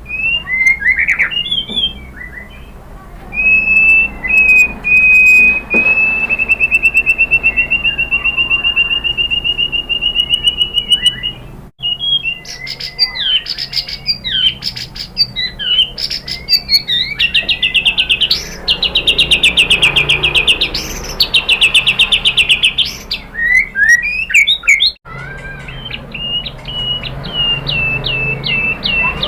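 White-rumped shama (murai batu) singing a run of varied whistled phrases. The song includes a long, fast-pulsed trill and bursts of rapidly repeated notes, with two brief dropouts in the sound about 12 and 25 seconds in.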